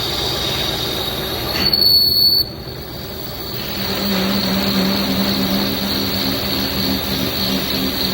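Metal lathe turning a steel workpiece with a steady high-pitched whine from the cutting tool. A louder squeal rises for about a second near the start, and a low machine hum joins from about halfway.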